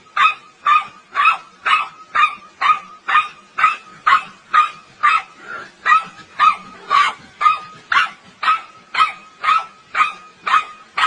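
A dog barking over and over in an even, steady rhythm of about two barks a second.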